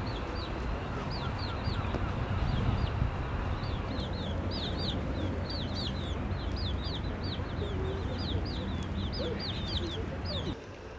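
Birds chirping repeatedly in short, high, hooked calls, several a second, over a steady low rumble of background noise; the sound cuts off abruptly near the end.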